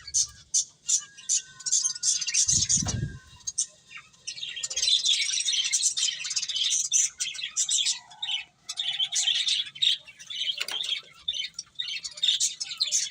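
Finches chirping busily, many short high chirps overlapping in quick succession, with a brief low thump about three seconds in.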